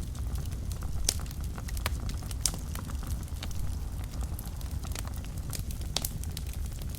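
Wood fire burning in a fireplace: a steady low rumble of flames with irregular sharp crackles and pops, a few louder snaps about a second in, two and a half seconds in and near six seconds.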